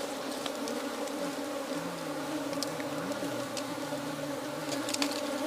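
Honeybees buzzing in a steady, many-toned hum around their opened nest as its combs are cut out, with a few faint ticks.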